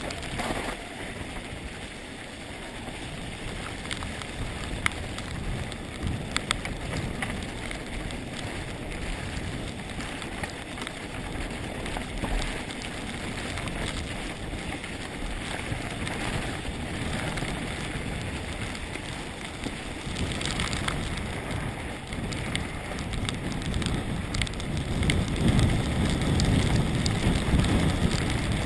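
Mountain bike descending a rough trail at speed: tyres crunching over dirt and loose stones, with scattered sharp clicks and rattles from the bike. Wind buffets the microphone, growing louder near the end.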